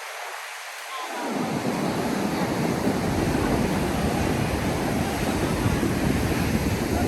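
Ocean surf hissing steadily on a beach; about a second in, wind starts buffeting the microphone with a loud, uneven low rumble that covers the surf.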